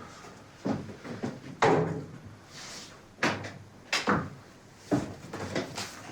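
A series of sharp knocks and thumps, about five spread over a few seconds, the loudest about one and a half seconds in.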